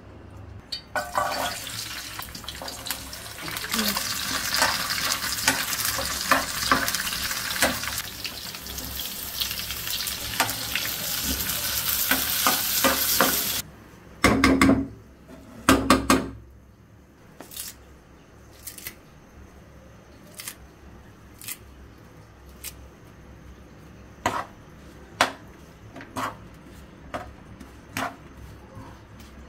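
Sliced onion, garlic cloves and green chillies frying in oil in a black frying pan: a loud steady sizzle that cuts off suddenly about thirteen seconds in. Then two louder bumps, followed by a metal spoon stirring and tapping against the pan in scattered clicks over a faint sizzle.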